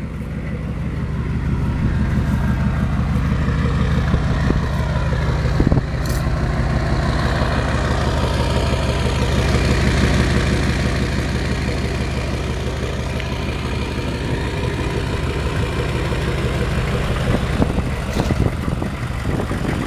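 1996 Chevy 1500's 6.5-litre turbo diesel V8 idling steadily, with an even diesel clatter and no change in engine speed.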